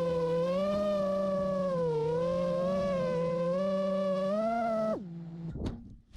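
A single held electronic tone with a rich, buzzy overtone structure, wavering slowly up and down in pitch, that glides sharply down and cuts off about five seconds in.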